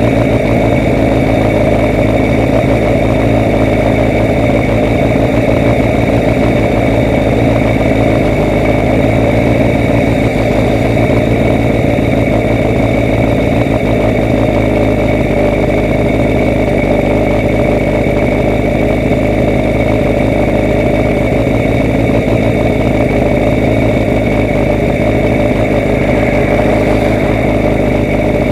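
A vehicle engine running at a steady speed under loud, constant travel noise, with no change in pitch or level.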